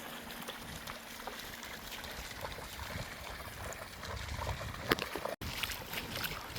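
Shallow sea water lapping and trickling at the shoreline, a soft steady wash with small splashy clicks. The sound cuts out for an instant a little over five seconds in.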